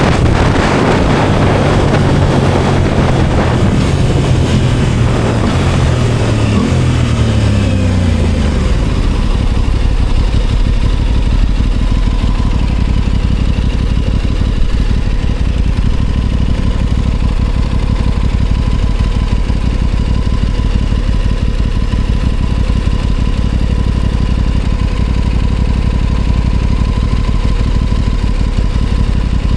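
Aprilia Tuono 660 Factory's parallel-twin engine falling in pitch as the bike slows, with wind noise fading away, then idling steadily from about nine seconds in.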